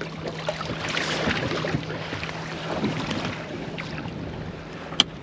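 Wind buffeting the microphone and water sounds on a small fishing boat at sea, over a steady low hum, with a single sharp click near the end.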